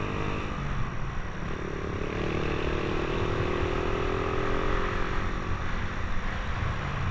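Motorcycle engine running through an aftermarket 'chicken pipe' exhaust, steady and rumbling, its pitch rising about two seconds in and easing back down after about five seconds.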